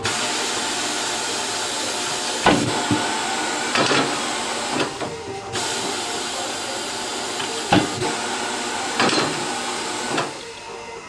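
A steady rushing hiss of tyre-changing work, broken by several sharp knocks. The hiss eases off near the end.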